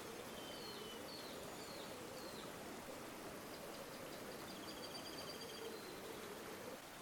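River water flowing steadily, with small birds calling faintly over it: a few short chirps in the first couple of seconds, then a rapid trill around the middle.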